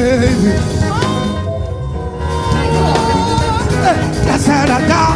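Live African gospel praise band playing: a steady bass-heavy groove under a long held melody note about a second in, with gliding melodic lines around it.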